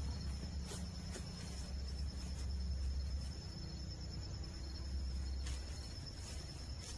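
Steady low rumble of a garbage truck's engine, the truck heard but not yet close, under a continuous high trill of crickets.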